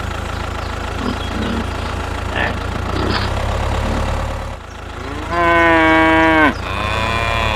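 A steady low engine-like drone runs under a long, loud moo-like call about five seconds in. The call rises at its start, holds level for about a second and is followed by a fainter held tone.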